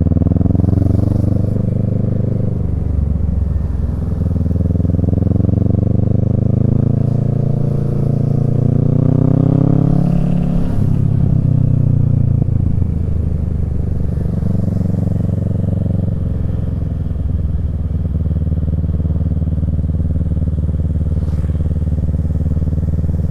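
Kawasaki Z650's parallel-twin engine through a Yoshimura Alpha exhaust under way, the pitch climbing twice as the bike accelerates, dropping after each rise, then holding steady at a lower pitch for the second half.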